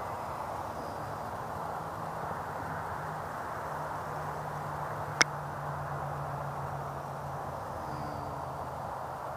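Steady drone of radio-controlled model aircraft in flight, with one sharp click about five seconds in.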